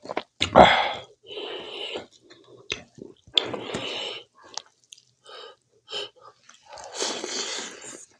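Close-miked mouth sounds of a person eating: wet chewing and smacking clicks between several noisy breaths lasting about a second each.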